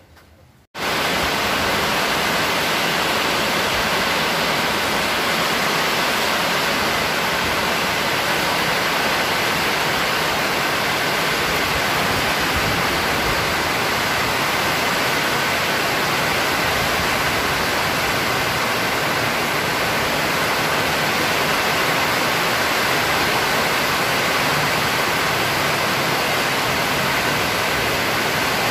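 Heavy rain pouring down steadily, a dense even hiss that starts abruptly just under a second in.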